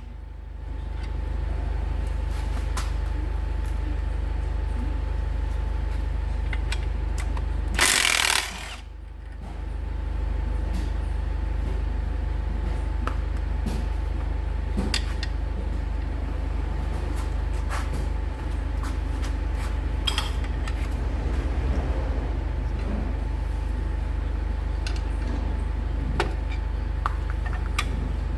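Workshop work on a car clutch: one short, loud burst from an air tool about eight seconds in, with scattered light metal clinks, over a steady low hum.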